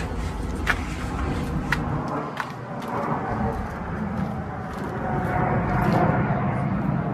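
Mercruiser 3.0L four-cylinder petrol inboard engine on a Bayliner 185 running steadily, a little louder about five seconds in, with a few sharp clicks over it.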